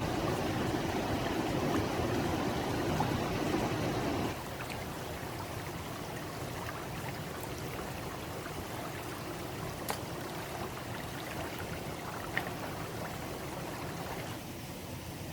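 Running water, like a stream flowing, as a steady rushing noise. It drops to a lower level about four seconds in, and there are a couple of small sharp knocks near the middle.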